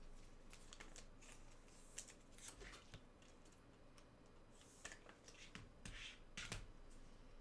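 Faint rustling and light clicks of trading cards being handled and slid against each other, a few sharper ticks scattered through.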